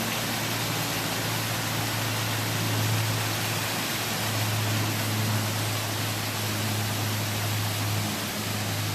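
Steady rushing and splashing of water from a small mountain waterfall.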